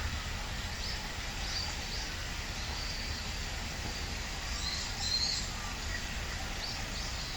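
Wild songbirds chirping in trees: short, high calls scattered throughout, with a busier burst of chirps about five seconds in, over a steady low background rumble.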